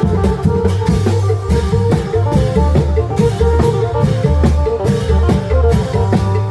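Isan klong yao long-drum ensemble playing a lively procession piece in phin style: deep long drums beat a steady, driving rhythm under a repeating plucked-string melody.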